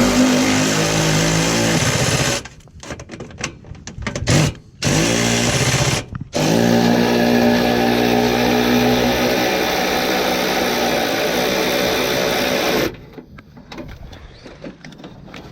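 Cordless power tool with a socket spinning a bolt: its motor starts and stops several times, each run rising in pitch as it spins up, with a short run, two brief bursts and then one long run of about six seconds, followed by light handling clicks.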